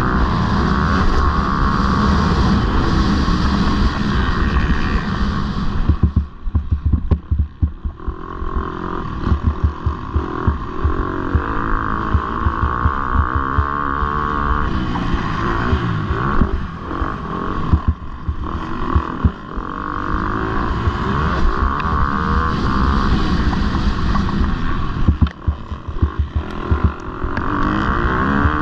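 Motocross bike engine running hard under racing throttle, its pitch rising and falling with the revs. Twice the throttle chops off and on in a choppy stretch.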